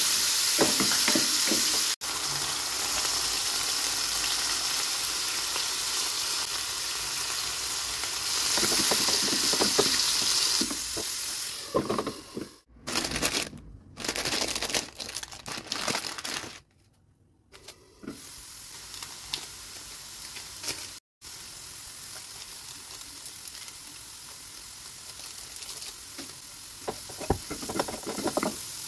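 Diced raw chicken sizzling loudly in hot oil in a frying pan, then a short stretch of choppy rustling as an instant-noodle packet is handled, then a quieter sizzle as chicken and diced vegetables are stirred with a wooden spoon scraping the pan.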